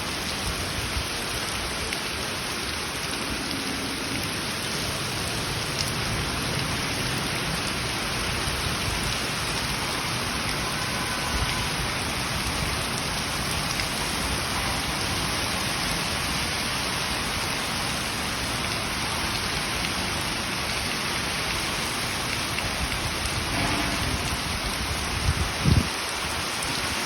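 Heavy rain falling steadily, a dense even hiss of drops on surfaces. A couple of short low thumps come near the end.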